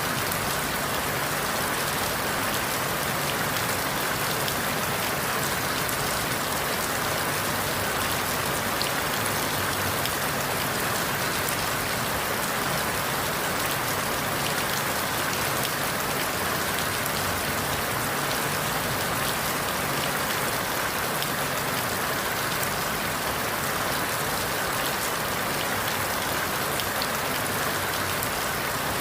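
Steady rain falling through forest leaves, an even hiss with many fine drop patters.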